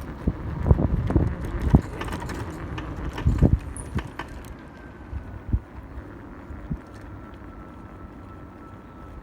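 1500 W hub-motor electric pit bike ridden over rough ground: a run of loud clunks and rattles from the bike in the first few seconds, then a quieter ride with a faint steady high whine.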